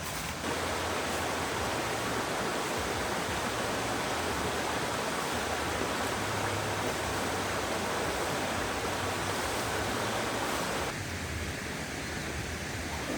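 Stream water rushing steadily, an even hiss with no distinct events; it drops abruptly a little quieter near the end.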